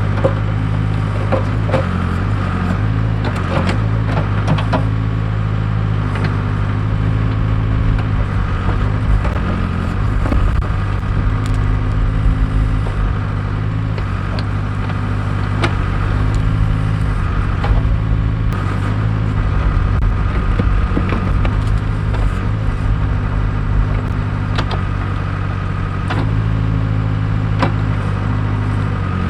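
Case 580K backhoe's diesel engine running steadily under load, with scattered sharp knocks and cracks as the bucket digs at a tree's roots.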